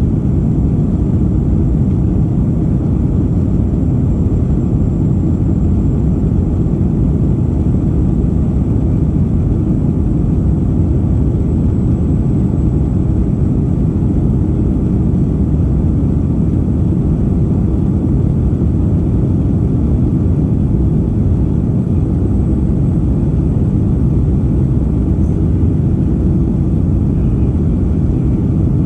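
Airliner cabin noise in flight: the steady low roar of the jet engines and rushing air, with a faint steady high whine above it.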